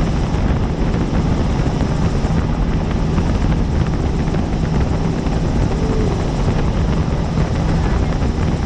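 Helicopter in flight: a steady, loud drone of rotor and engine, strongest in the low range, with a fast, even rotor beat.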